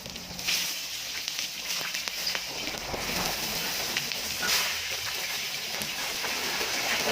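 Pork ribs sizzling on a hot pan: a steady hiss with scattered crackles and pops.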